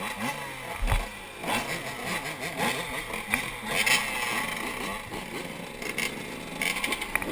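Kawasaki KX125 single-cylinder two-stroke engine revving hard, pitch climbing and dropping with each gear change, with several thumps and knocks through the ride.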